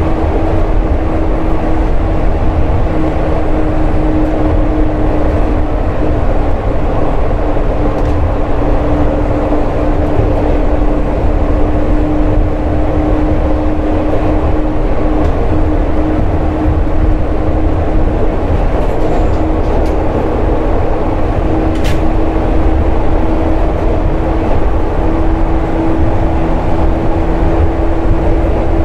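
Running sound of a JR 415 series electric multiple unit: a steady rumble of wheels on rail with a humming tone from the running gear that sags slightly in pitch partway through and climbs again near the end. A single sharp click comes about two-thirds of the way in.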